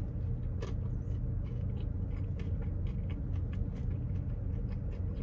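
Chewing a mouthful of crispy chicken sandwich, heard as short irregular clicks, over the steady low hum of a car idling.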